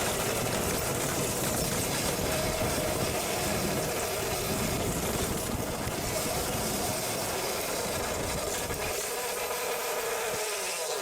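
Electric dirt bike being ridden: a steady electric motor and chain whine over wind and ground rumble, the low rumble dropping away about nine seconds in.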